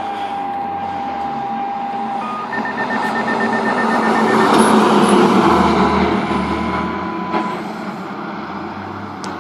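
Fire apparatus driving past: its engine and road noise swell to a peak about five seconds in and then fade. A steady siren tone cuts off about two seconds in, and a run of rapid short electronic beeps follows.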